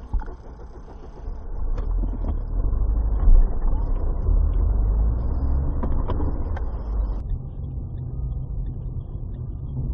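Car engine and road noise picked up by a dash cam: a steady low rumble that builds over the first couple of seconds and stays loud.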